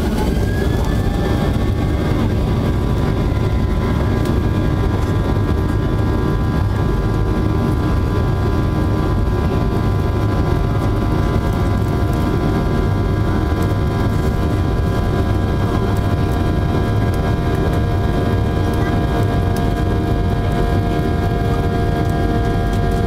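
Boeing 737-800's CFM56-7B jet engines at high thrust, heard inside the cabin: a loud steady rumble with a layered fan whine whose pitch rises and levels off about a second in.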